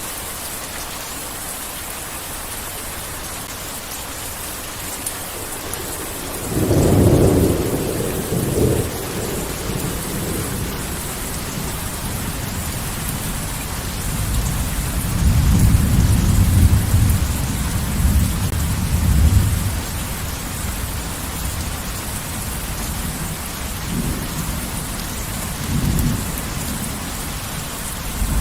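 Heavy rain falling steadily, with thunder. A sudden loud clap comes about a quarter of the way in and rolls off into rumbling. A longer rumble follows in the middle, and two short, weaker rumbles come near the end.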